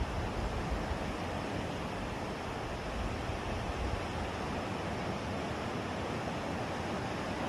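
Lake waves washing in steadily, with strong wind buffeting the microphone in a low, uneven rumble.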